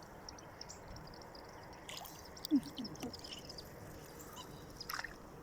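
Faint wetland ambience with scattered short, high bird chirps and a few light clicks and knocks, plus two brief low falling calls about two and a half seconds in.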